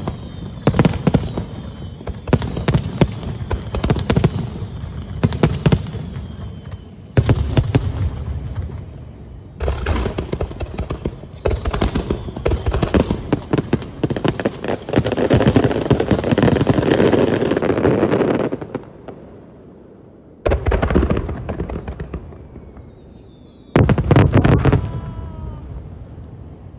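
Fireworks display: a rapid run of booming shell bursts, then a long stretch of dense crackling about halfway through. After a short lull, two last volleys of bangs follow, the second near the end.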